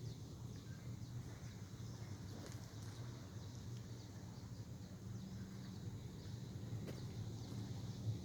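A boat's engine running with a steady low drone, plus a few faint ticks.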